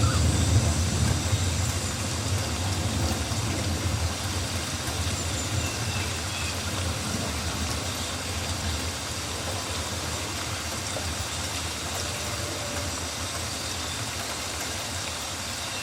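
Rainforest ambience: steady rain hiss with a low rumble that is strongest at the start and eases off, and a few faint high calls.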